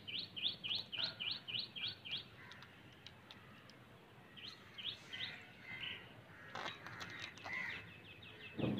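Small bird chirping in quick runs of short, high, rising chirps, about five a second, with a dull thump near the end.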